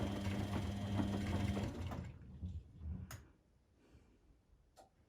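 Washing machine motor turning the drum with a steady hum, stopping about two seconds in. It is much quieter after that, with two sharp clicks.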